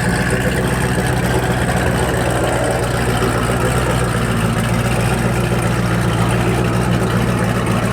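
Twin-turbo Malibu drag car's engine idling steadily.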